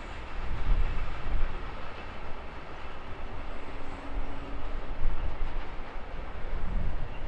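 Container freight train's loaded flat wagons rolling past on the rails: a steady, uneven rumble of wheels and wagons.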